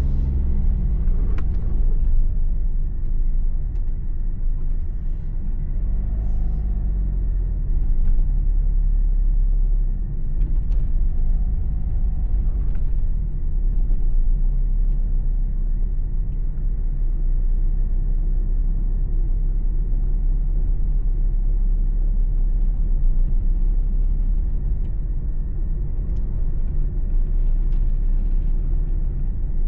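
Car driving on the road, heard from inside the cabin: a steady low rumble of engine and tyre noise, with the engine note sweeping up and down a few times, around 6 and 12 seconds in.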